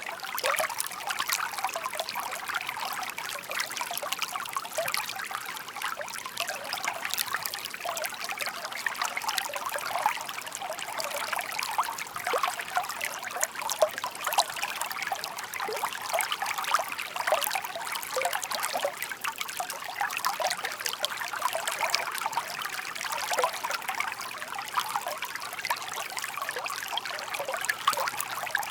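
Shallow brook babbling steadily over stones: a continuous trickle of many small splashes and gurgles.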